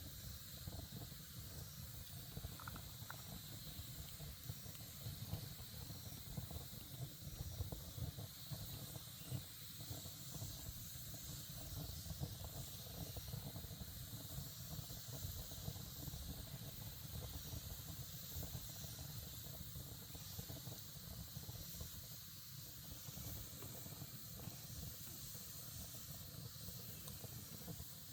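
Wood campfire burning: a steady hiss with frequent small crackles and pops.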